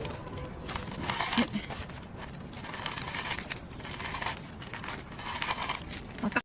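Crinkling and tearing of plant material being handled, coming in irregular bursts.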